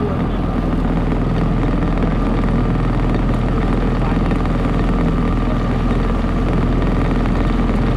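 Motorboat engine running steadily at constant speed, a steady drone with an even rush of noise over it.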